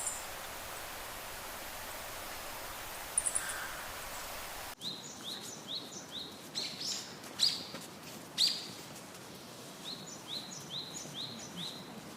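Rainforest ambience: a steady hiss with a few faint high chirps, then an abrupt cut about five seconds in to a bird calling in runs of short, quickly repeated notes, about three a second, with a few louder calls between the runs.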